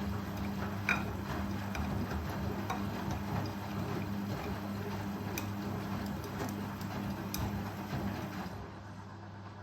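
Indesit Ecosense washing machine running on its spin cycle, its motor humming steadily while irregular ticks and clicks come from the turning drum. A little before the end the clicking stops and the sound drops to a quieter, lower hum.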